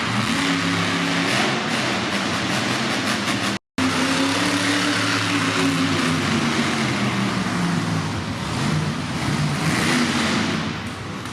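Monster truck's supercharged V8 running hard, its pitch rising and falling as it revs. The sound drops out completely for a moment just under four seconds in.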